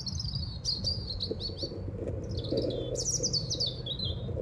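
Small birds chirping and twittering in several quick bursts of sweeping high notes, over a steady low hum.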